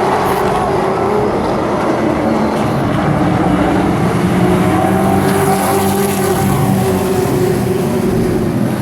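A pack of race trucks running at racing speed on an oval track, several engines together with their pitch rising and falling slightly through the laps.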